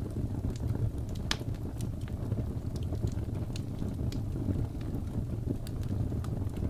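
Wood fire crackling: a steady low rumble of burning logs with irregular sharp crackles and pops, one louder pop about a second in.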